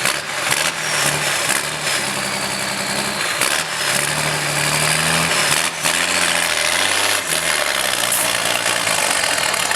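Tow truck engine running hard under heavy load as the truck pulls a rock of about five or six tons out of a ditch. The engine's pitch steps up and down as it strains.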